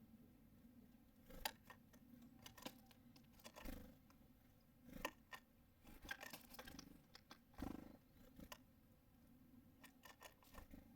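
Small birds such as tits and nuthatches landing and pecking at a feeder: faint, irregular taps, clicks and scratches of beaks and feet on seed, with a quick cluster of taps about six seconds in.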